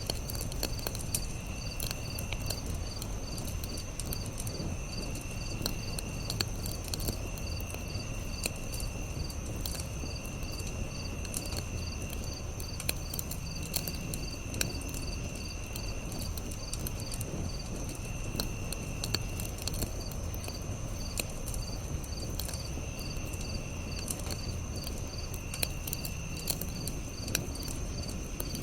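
Campfire crackling, with scattered sharp pops over a low rumble, while crickets and other insects chirp steadily. A short higher trill comes back every couple of seconds.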